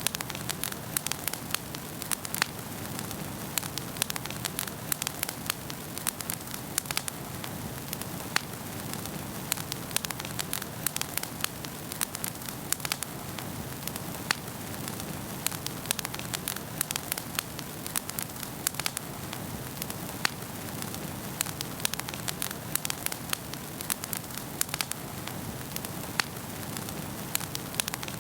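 Wood fire in a fireplace crackling, with frequent sharp irregular pops and snaps over a steady low rumble of burning.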